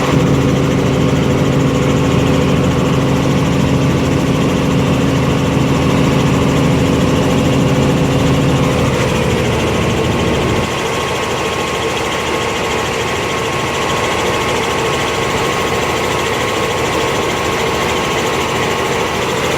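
Helicopter engine and rotor running with a loud, steady drone. The low part of the sound drops off abruptly and it becomes a little quieter about eleven seconds in.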